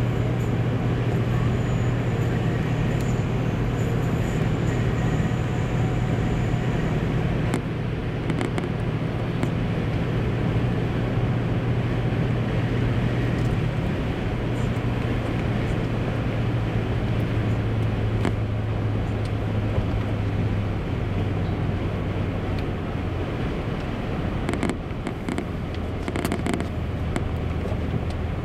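Steady drone of a car's engine and road noise heard from inside the cabin while driving. The low engine hum drops in pitch a few times in the second half.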